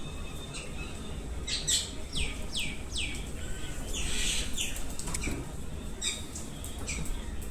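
Birds chirping and calling: a quick run of four falling chirps about two seconds in, a harsher, noisier call about four seconds in, then scattered short chirps.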